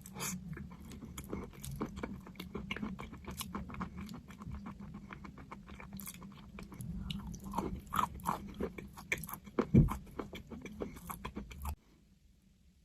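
Close-up crunching of crunchy chalk being bitten and chewed, a dense run of irregular crackling snaps that stops shortly before the end.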